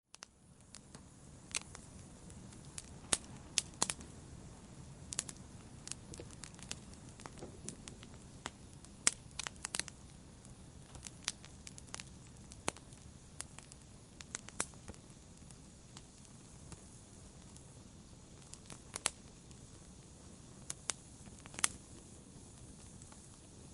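Wood fire crackling: irregular sharp pops and snaps from burning logs, several to a few a second, over a soft steady low rush of the flames.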